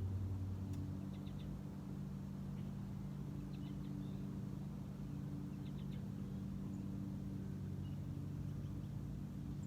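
Small birds giving short chirps, three or four quick high notes at a time, three times, over a steady low mechanical hum.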